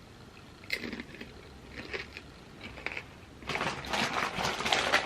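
Crinkly snack bag of chips being handled: a few short rustles, then a dense stretch of crinkling starting about three and a half seconds in.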